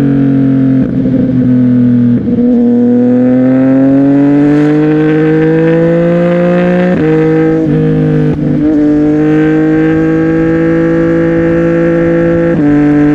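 CFMOTO 675NK's three-cylinder engine through an aftermarket Burnout titanium exhaust, under way. The note climbs slowly as the bike accelerates, drops with quick gear changes about halfway through, then holds steady before another shift near the end.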